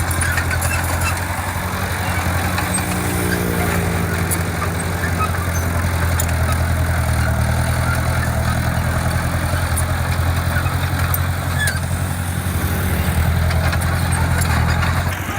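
A heavy construction machine's diesel engine running steadily under load, with its pitch shifting briefly a few seconds in and again near the end, and scattered light clicks over it.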